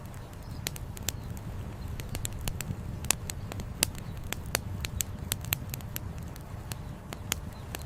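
Wood campfire crackling, with sharp irregular pops and snaps several times a second over a steady low rush.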